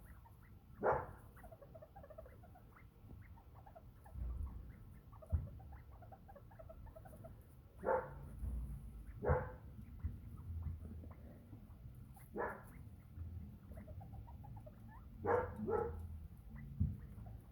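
About six short, sharp animal calls, single or in quick pairs, every few seconds over a low rumble.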